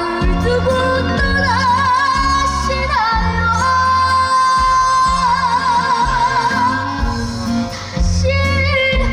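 A young male singer's high voice singing a Korean trot song, holding long notes with wide vibrato over a backing track with a steady bass beat.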